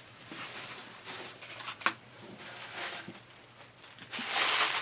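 Packaging and craft supplies being handled: soft, uneven rustling, a sharp click about two seconds in, and a louder crinkling near the end.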